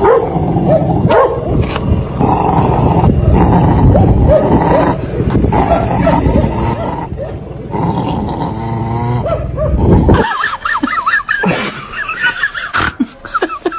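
A dog barking and growling loudly for about ten seconds, then switching abruptly to higher, quicker yips and whimpers.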